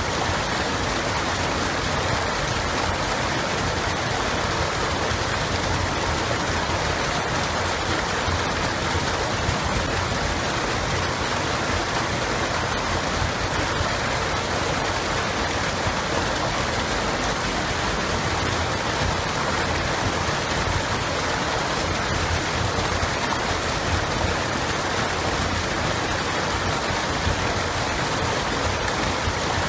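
Running water of a stream flowing steadily, an even rushing with no breaks.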